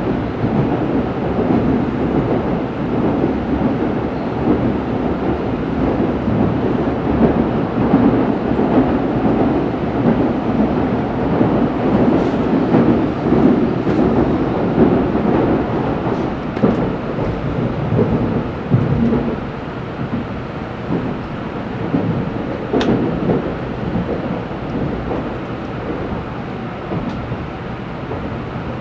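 Tokaido Shinkansen train running on the line, heard inside the passenger car: a steady low rumble of wheels on rail and running gear, with a few brief clicks over it. The rumble eases slightly in the last third.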